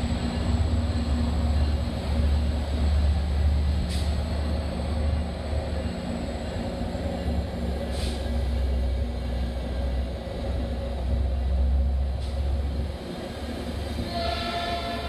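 Diesel train rumbling steadily, easing off near the end, when a train horn begins to sound.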